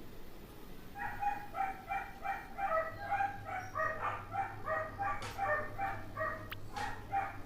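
A dog barking rapidly and repeatedly, about three to four barks a second, starting about a second in. A few sharp clicks come near the end.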